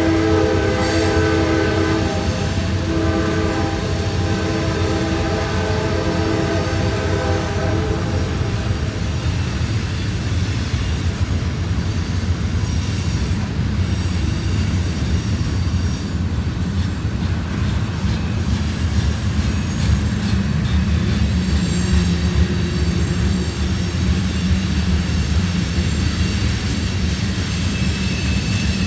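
Norfolk Southern freight cars rolling past with a steady low rumble and clatter of wheels on rail. The locomotive's air horn sounds twice at the start, the second blast longer and fading out about nine seconds in.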